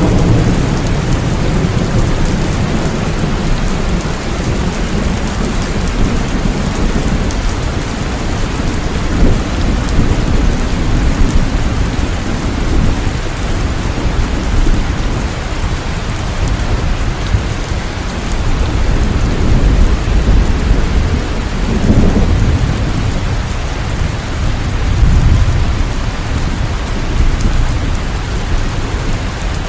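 Steady heavy rainfall, a dense even hiss of drops, with low rolling rumbles of thunder swelling and fading several times.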